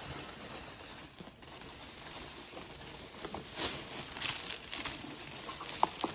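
Rustling and light clicks of a takeout food container and its wrapping being handled and opened, with a sharp click near the end.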